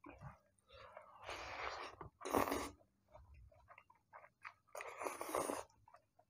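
Close-up eating sounds of a person chewing a mouthful of rice and curry eaten by hand: small wet mouth clicks, with three louder rushing sounds about one and a half, two and a half and five seconds in.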